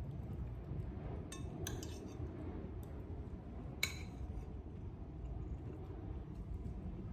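Cutlery clinking against a plate while eating: a few light clinks, then one sharper ringing clink about four seconds in.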